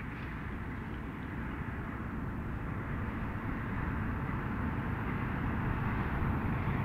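Freight train approaching, a steady low rumble growing slowly louder.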